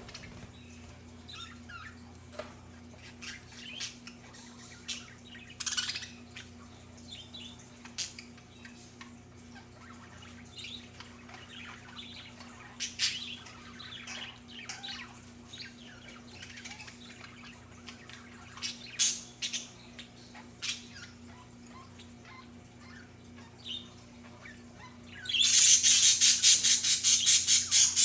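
Budgerigars chirping and warbling in short, scattered calls. About 25 seconds in, a loud, rapid, harsh chattering starts and keeps going.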